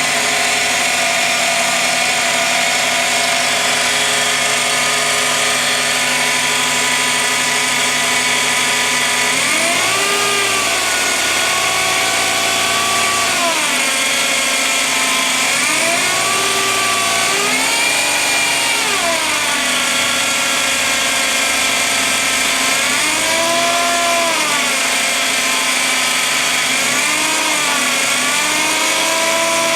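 Suzuki Wagon R (MH21S) engine idling, then revved up and let back down about five times from about ten seconds in. The owner records this as the car's abnormal noise (異音), of unstated cause.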